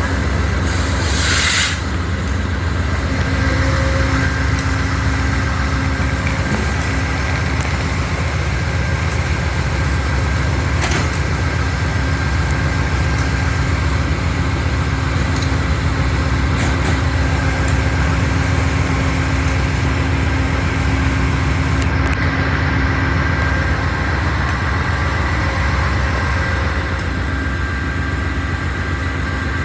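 A large engine running steadily at idle: a constant deep rumble with a faint steady whine above it. A short hiss comes about a second in.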